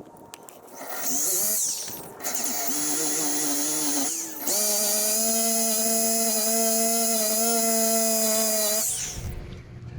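DeWalt drill spinning a wire wheel, run in three bursts, the last about four seconds long, with a steady motor whine and a high scraping hiss as it strips paint and rust from a car body panel.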